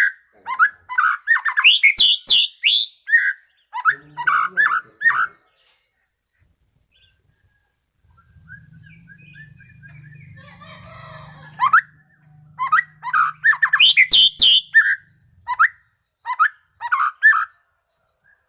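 White-rumped shama (murai batu medan) singing: quick runs of loud whistles and chattering notes, breaking off for several seconds near the middle before a second run of phrases.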